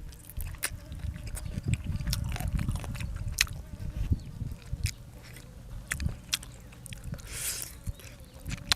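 Close-miked chewing and eating: a person chews food with a stream of wet clicks, smacks and soft thuds, and a short breathy hiss about seven and a half seconds in.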